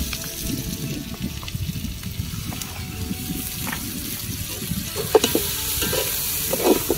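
Sliced tomatoes and onions sizzling in an aluminium cooking pot while a metal ladle stirs them, scraping and clinking against the pot. The scrapes get louder and sharper from about five seconds in.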